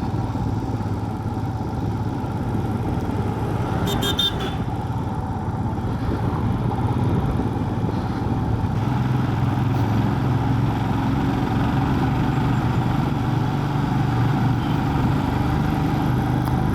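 Motorcycle engine running steadily on the move, with road noise. A brief high-pitched sound comes about four seconds in.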